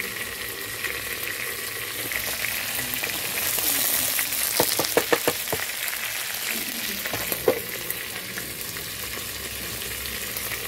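Marinated chicken pieces with freshly added onions and carrots sizzling steadily in hot oil in a pan. A quick run of knocks, about five, comes a little under halfway through, and a single knock follows a couple of seconds later, as the food is stirred.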